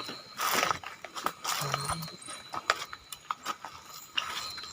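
Footsteps rustling and crunching through dry leaves and brush, with many scattered small cracks and clicks.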